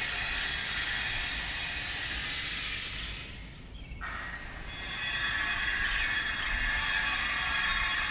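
Electric power tool grinding stone, a steady high-pitched whine. It dies away about three and a half seconds in, then starts again abruptly a moment later and runs steadily.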